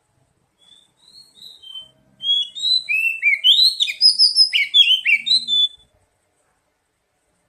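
Oriental magpie-robin song: a few soft whistled notes, then about two seconds in a loud, fast, varied phrase of rising and falling whistles and chirps that stops abruptly.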